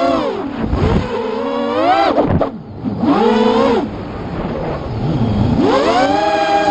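A motor revving hard in three surges, its pitch rising and then falling each time.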